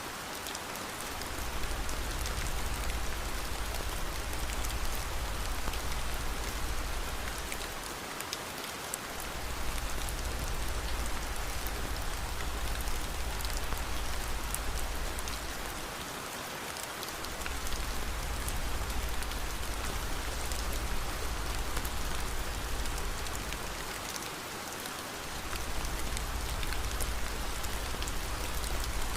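Steady rain falling, an even hiss with scattered faint sharp ticks. A low rumble runs underneath and drops out briefly about every eight seconds, the sign of a looped ambience recording.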